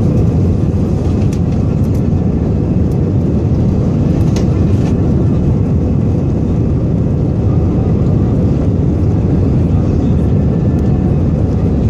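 Inside the cabin of an Airbus A320-214 during takeoff: its CFM56 engines and the rushing air make a steady, loud rumble that stays even throughout.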